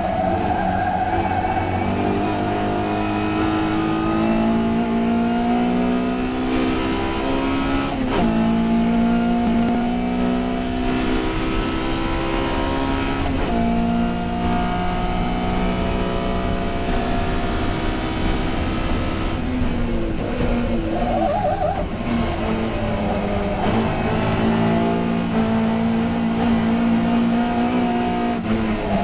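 Touring race car's engine at full racing effort, rising in pitch through each gear with abrupt upshifts about eight and thirteen seconds in. Around twenty seconds in the pitch falls away under braking and downshifts, then climbs again as the car accelerates.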